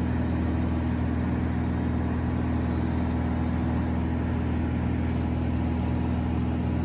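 Van's RV-10's piston engine and propeller droning steadily in cruise, heard inside the cabin: an unchanging low hum with several steady tones.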